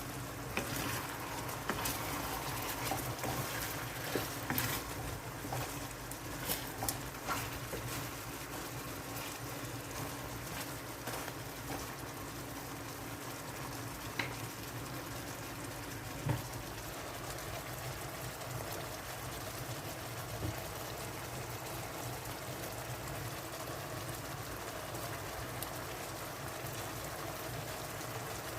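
Chicken wings cooking in black pepper sauce in a pan, a steady simmering hiss, with a few light utensil clicks and knocks in the first several seconds and twice more about halfway.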